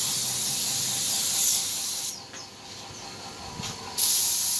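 Compressed-air spray gun hissing while spraying clear coat. The hiss cuts off about two seconds in and starts again sharply near the end.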